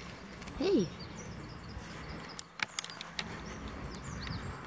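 Small birds chirping faintly in the background, with a few sharp clicks about two and a half to three seconds in and a person calling a short "hey" near the start.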